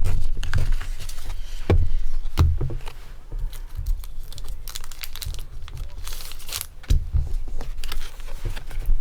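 Trading cards and thin plastic being handled: crinkling and rustling with light clicks and low bumps on the table, as a Pokémon card is slid into a plastic card sleeve.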